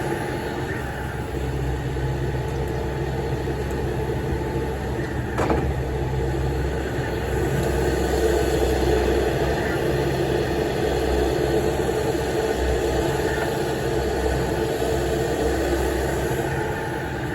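Heavy diesel engines of an excavator and dump truck running steadily as the excavator works, with one sharp knock about five and a half seconds in.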